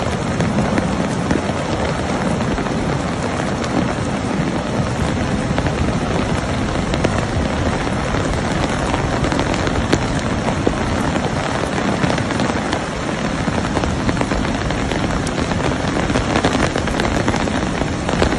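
Heavy rain falling steadily, a dense hiss with many sharp drop impacts.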